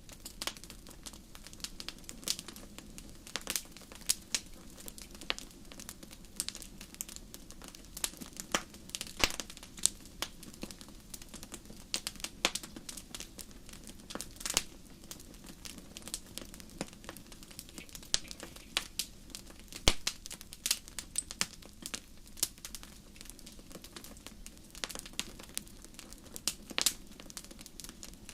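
Wood fire burning in a fireplace: irregular sharp crackles and pops, some louder than others, over a soft steady rush of the flames.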